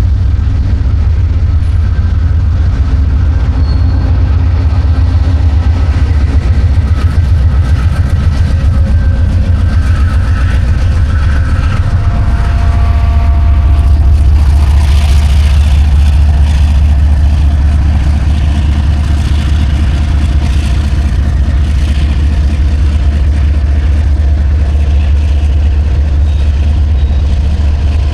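Four CSX diesel-electric freight locomotives pulling a train, a loud steady low engine rumble. About halfway through, more rattle and hiss joins in.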